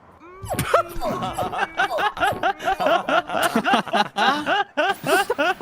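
A person's voice making a rapid string of high-pitched, squeaky giggle-like noises, about four short rising-and-falling squeaks a second, after a couple of longer swooping squeaks at the start.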